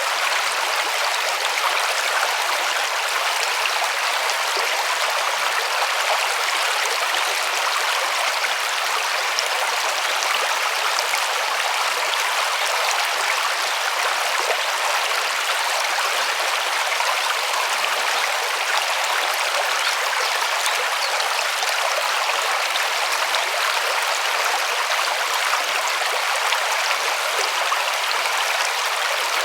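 River water rushing and babbling over stones, a steady, even rush with fine splashing and no break.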